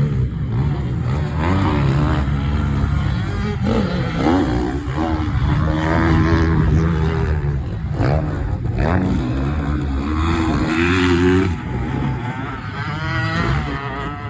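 Yamaha PW50's small single-cylinder two-stroke engine running loud and revving up and down as the bike is ridden, its pitch rising and falling every second or two.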